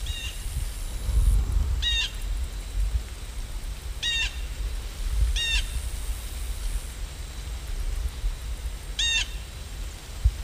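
A low steady rumble with a bird calling five times, each call short and clear, spaced a few seconds apart.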